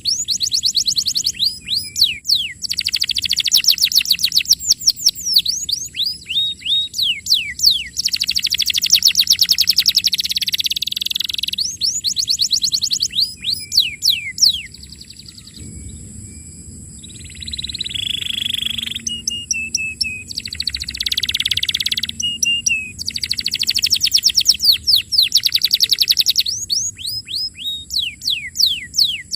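Domestic canary singing in long, very fast trills: rolls of rapidly repeated falling notes, phrase after phrase with short breaks. Near the middle there is a quieter stretch of held whistled notes.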